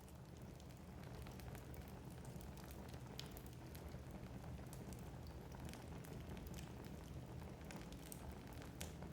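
Wood fire crackling in a fireplace: scattered sharp pops and ticks from the burning logs over a low, steady rumble.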